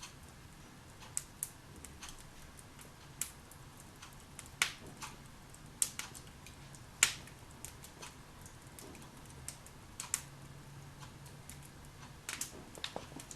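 Wood fire burning in a fireplace, crackling with irregular sharp pops, the loudest about seven seconds in, over a faint steady low hum.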